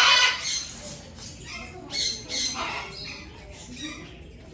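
Parrots squawking: a series of short, harsh calls, the loudest right at the start.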